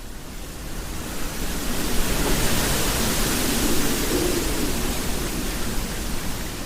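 Hurricane wind and rain: a steady rushing noise that swells up over the first two seconds and eases off near the end.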